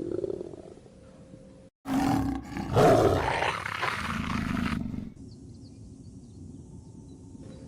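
A large wild animal roaring: one loud, rough call of about three seconds that begins about two seconds in and is loudest near its middle, then dies down to a low rumble.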